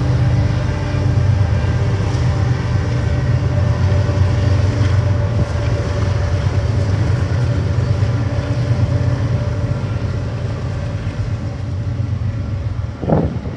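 Several BNSF diesel locomotives pulling a double-stack intermodal train: a loud, steady low engine drone with a few held tones above it.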